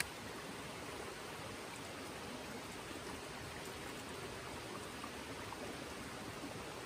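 A river flowing, a steady rushing of water.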